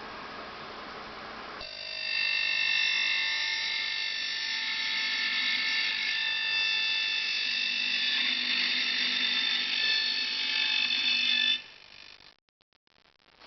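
Gemma Group Mini-Fresa 90 mullion milling machine running: a hiss, then about a second and a half in a loud high whine of several steady tones starts from its cutter motor, holds steady, and cuts off near the end.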